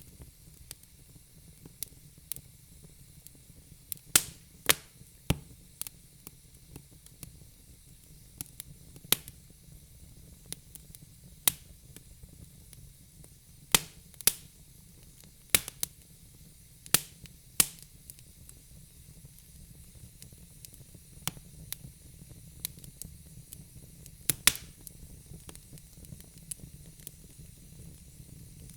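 Wood fire burning in a fireplace: a steady low hiss with sharp, irregular crackles and pops from the burning logs, a few of them much louder than the rest.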